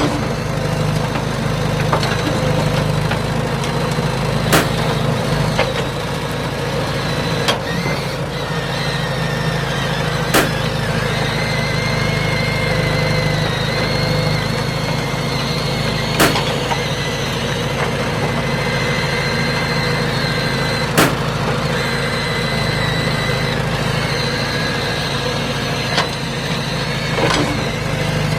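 The small motor of a toy excavator runs with a steady hum, broken about seven times by short sharp pops, the sound of balloons bursting.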